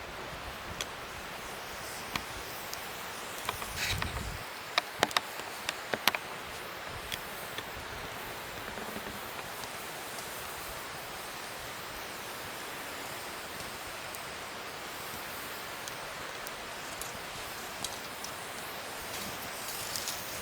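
Wood fire burning with a steady hiss and occasional sharp crackling pops, several close together about a quarter of the way in, just after a brief rustle.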